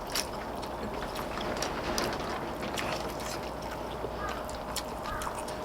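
Quiet eating at a table: scattered small clicks and taps of chopsticks and spoons on dishes, with chewing, over a steady background hiss.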